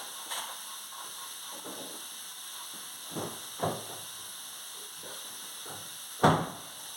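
Steady hiss with a few short knocks and clicks of parts being handled, the loudest just after six seconds in.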